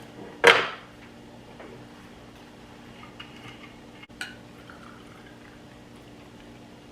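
Drink being poured into a glass for a vodka and strawberry lemonade, with a short loud burst about half a second in. A few faint clicks and a sharper clink of glass follow near the middle.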